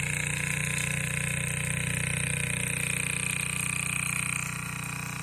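Homemade model steam engine with its own boiler running fast and steady: a rapid, even chuffing under a steady hiss. About four seconds in, the highest part of the hiss drops away and the sound gets a little quieter.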